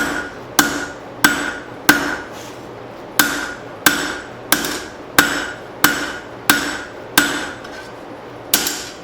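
Heavy hand hammer striking hot leaf-spring steel on an anvil while drawing it out, a steady rhythm of about one and a half blows a second, each blow followed by a short metallic ring.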